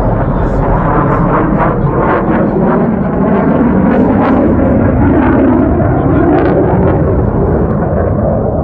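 Loud, steady jet roar from the Blue Angels' F/A-18 Super Hornets flying over.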